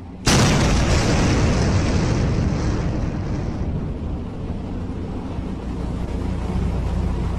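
A heavy vehicle's engine running with a steady low hum under loud wind noise on the microphone, the noise coming in abruptly just after the start.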